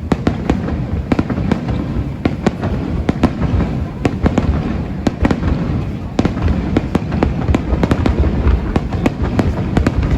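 Aerial fireworks display going off: a dense, continuous barrage of sharp bangs and crackles, several a second, over a steady low rumble of booms.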